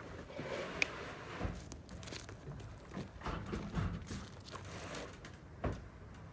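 Rustling and crinkling of things being handled, with a few sharp clicks and knocks, the clearest about a second in and near the end.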